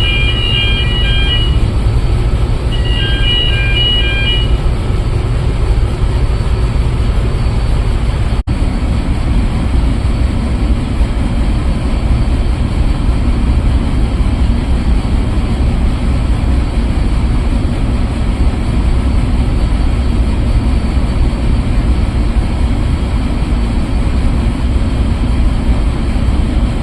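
Loud, steady low rumble of shipboard machinery in a scrubber or engine space. In the first few seconds come two short bursts of a pulsing electronic beep, like an alarm or signal tone. About eight seconds in the sound drops out for an instant.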